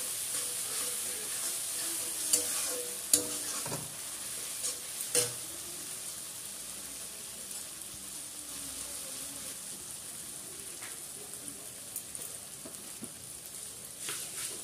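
Onions, ginger-garlic paste and turmeric sizzling in hot oil in a steel kadai, with a metal spatula scraping and clinking against the pan a few times in the first half. The stirring then stops, and the sizzle goes on more quietly.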